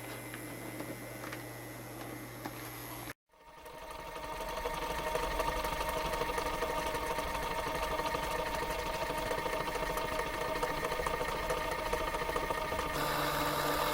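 Small electric motor and gearing of an MTB SW1200 TT scale model diesel locomotive running with a steady whine. After a brief cut about three seconds in, the whine swells over a second or two and then holds steady.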